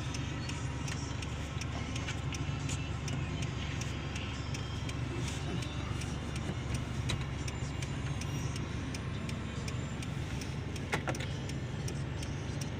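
Hyundai Genesis Coupe 2.0T's turbocharged four-cylinder engine idling steadily, heard from inside the cabin, with a couple of soft clicks near the end.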